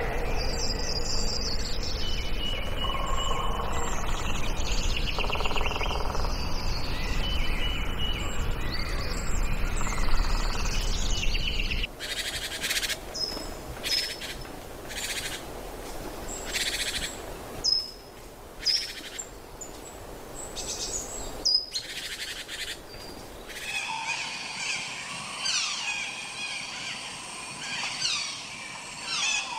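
Wild birds chirping and calling in a mix of short whistled notes and trills, over a steady background rush. The rush cuts off about twelve seconds in, and the calls turn sparse and separate. Denser calling returns near the end.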